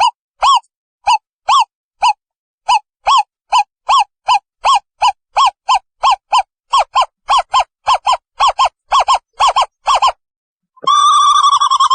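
An owl calling a series of short, clear hooting notes that speed up from about two to about four a second, then breaking into one long wavering note near the end.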